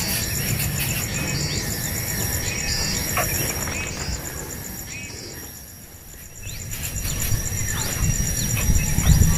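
Steady high-pitched insect trill with short, scattered bird chirps over it and music in the background; everything drops away briefly about six seconds in.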